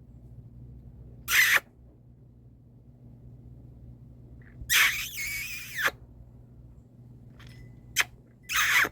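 Domestic cat meowing several times, one call longer and wavering in pitch about halfway through, typical of a cat asking for food.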